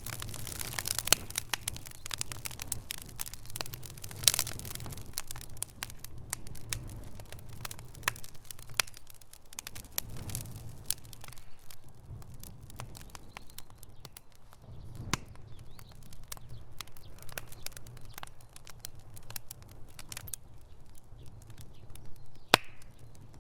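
Wood fire burning in a fireplace: dense, irregular crackling and sharp pops over a steady low rumble of the flames, with a few louder single pops spread through.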